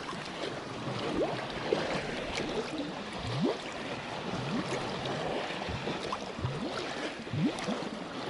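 A small plastic bottle held under lake water, glugging as air bubbles out while it fills: a series of short rising gurgles about once a second, over the lapping of shallow water.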